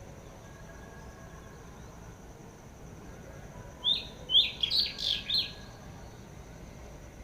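A bird giving a quick series of about five sharp, falling chirps about four seconds in, over a faint steady high-pitched background hiss.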